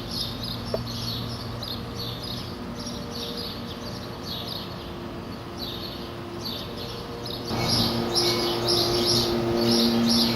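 Birds chirping in quick repeated calls over a steady low hum; both get louder about seven and a half seconds in.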